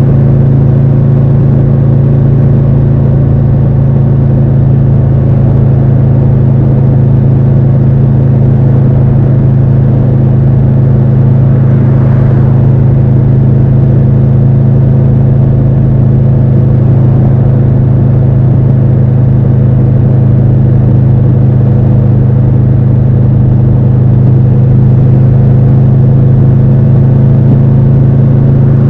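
Triumph Tiger 1200 Rally Pro's three-cylinder engine running loud and steady at an even pitch, with no revving up or down.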